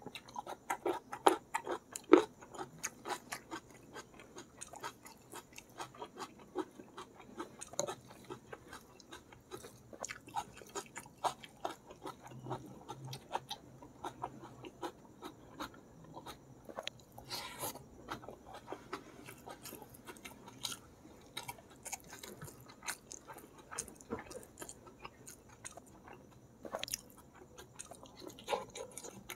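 Close-miked chewing of balado squid, rice and raw petai beans: wet smacking and crisp crunching bites, repeated steadily, with the loudest crunches about one and two seconds in.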